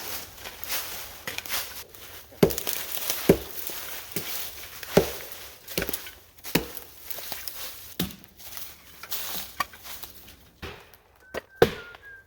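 Wood being chopped: a series of sharp, separate strikes at an uneven pace, about nine over several seconds.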